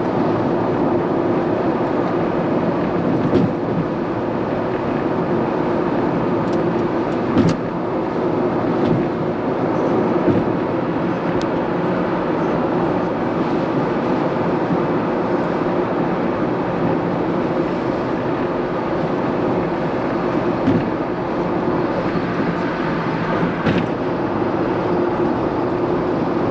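Steady drone of a car driving along a road, with engine and tyre noise and a few faint brief knocks.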